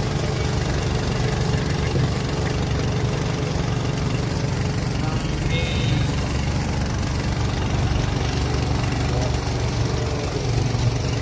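Steady low engine hum of a motorized duck-shaped tourist boat running on the water.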